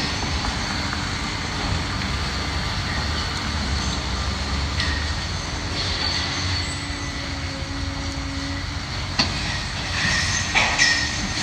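Heavy demolition machinery running with a steady low rumble while metal squeals thinly and debris knocks and crunches a few times, mostly near the end, the sound echoing inside the partly torn-down brick building.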